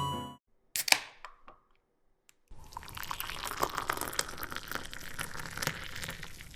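King oyster mushrooms sizzling as they grill: a steady crackle with many small pops, starting about two and a half seconds in. A couple of sharp clicks come about a second in.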